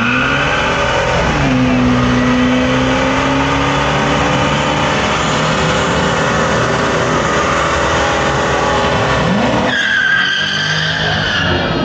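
Truck engine revved hard and held at high revs during a burnout, tyres squealing as they spin on the pavement. About nine and a half seconds in the revs drop and climb again, and the squeal rings out more clearly near the end.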